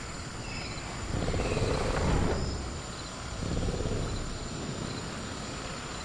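Sound-effect velociraptor growls, two low growling swells about a second and three and a half seconds in, over a steady high cricket trill and a few faint bird chirps.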